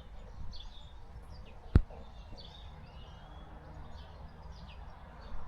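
Outdoor ambience with small birds chirping on and off, and one sharp click just under two seconds in.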